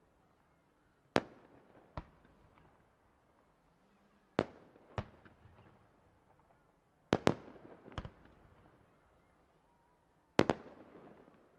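Aerial fireworks bursting: about eight sharp bangs at irregular intervals, some in quick pairs, each followed by a short fading echo. The loudest bang comes near the end.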